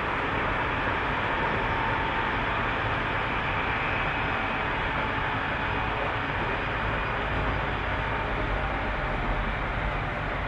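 Tobu 30000 series electric commuter train running steadily along the line: an even rumble of wheels on rails and running gear.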